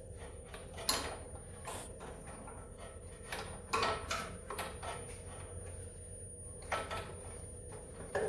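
A hand wrench clinking and knocking against metal about half a dozen times, irregularly spaced, while it is fitted to and worked on the starter bolt of a snowmobile engine. A low steady hum runs underneath.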